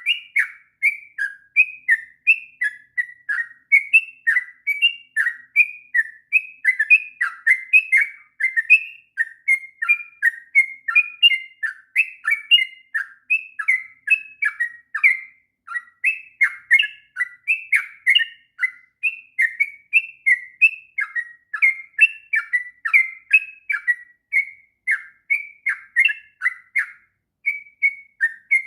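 Yellow-vented bulbul (trucuk) singing in a long unbroken run of quick, slurred chattering notes, the continuous 'ngropel' style of song.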